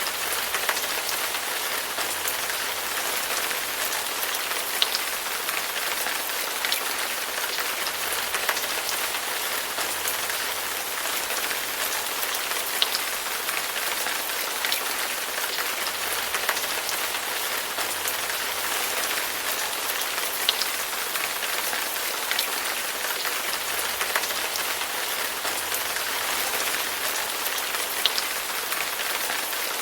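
Steady rain falling, an even hiss with occasional sharper single drop hits standing out every couple of seconds.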